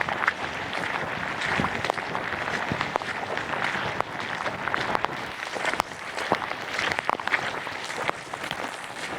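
Steady rain falling, a continuous hiss with many separate sharp drop hits.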